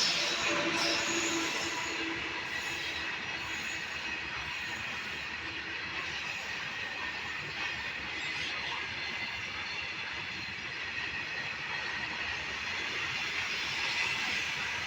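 A passing train's wheels running steadily on the rails, a continuous rail noise with a faint high-pitched whine.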